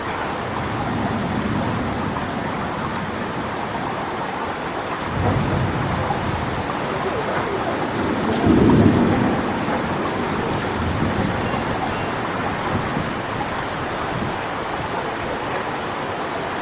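Strong storm wind rushing through coconut palm fronds, a steady noise, with low rumbling swells about five seconds in and again, loudest, near nine seconds.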